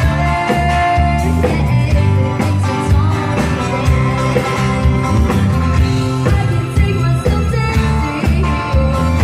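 Live rock band playing loud through a PA, with singing and guitar over a steady bass and drum beat.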